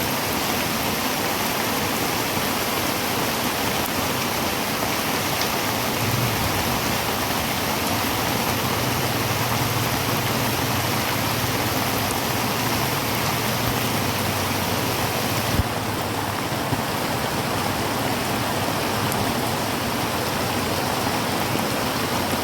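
Heavy rain drumming steadily on a tin roof, a dense even hiss. There is one sharp tap about two-thirds of the way through.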